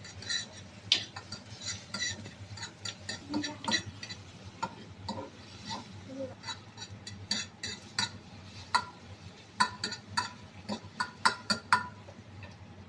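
A spatula clinks and scrapes against a frying pan in quick, irregular strokes as beaten eggs are stirred and scrambled in hot oil.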